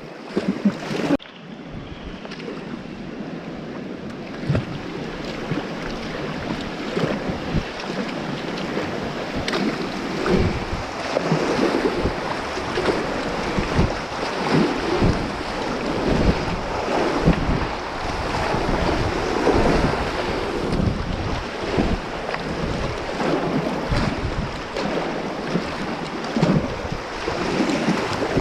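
River water rushing past a kayak, with irregular splashes from paddle strokes and wind buffeting the microphone.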